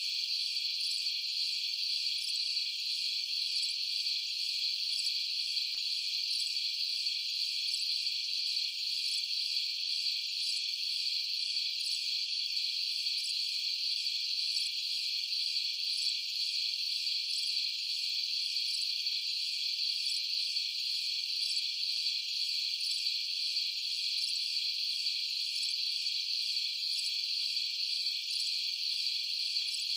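Steady chorus of night-time crickets: a dense, unbroken high-pitched chirring.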